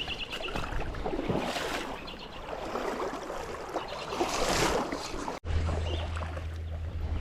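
Stream water rushing and splashing, swelling louder about a second and a half in and again around four and a half seconds. The sound cuts off abruptly just after five seconds, and a steady low hum follows.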